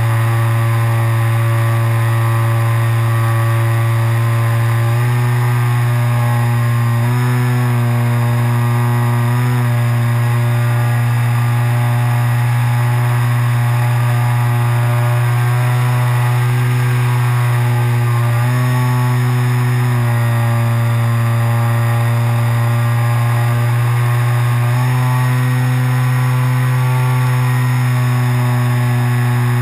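Model glider's motor and propeller running at steady cruise power, heard from an onboard camera as a loud, even drone whose pitch shifts a little several times as the throttle is adjusted.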